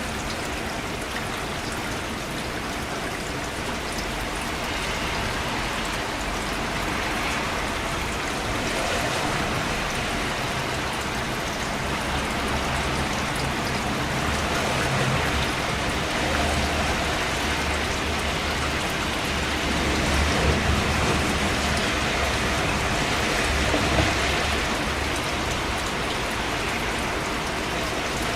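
Steady rain falling as an even hiss. Through the middle a low rumble swells in underneath it, peaking twice before it fades.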